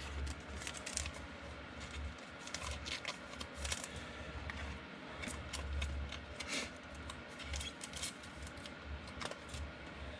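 Trading cards being handled and flipped through by hand: light, irregular clicks and slides of card stock, with a faint low hum under them.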